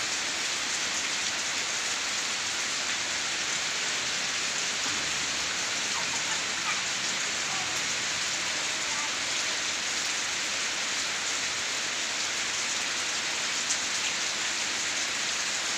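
Steady rain falling, an even hiss of rain on the ground.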